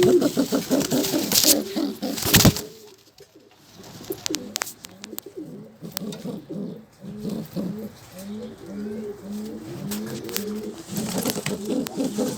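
A pair of yellow Seeki domestic pigeons cooing in repeated rolling phrases, with a run of short, evenly spaced coo notes about two thirds of the way through. A sharp knock sounds a couple of seconds in.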